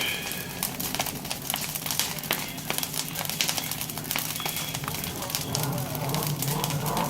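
Bonfire of dry fallen pine needles and twigs crackling, with a steady run of sharp pops and snaps. A voice comes in faintly near the end.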